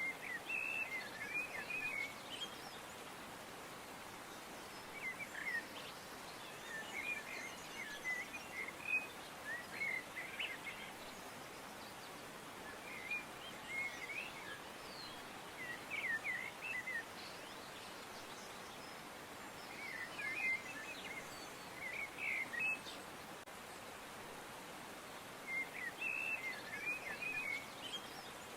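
Birds chirping: short bursts of quick chirps, a second or two long, coming back every few seconds over a steady background hiss.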